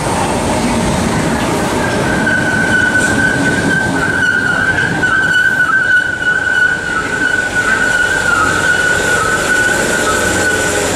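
Southern class 313 electric multiple unit running into the platform and slowing. About two seconds in, a steady high-pitched squeal from its wheels and brakes starts up over the rumble of the train.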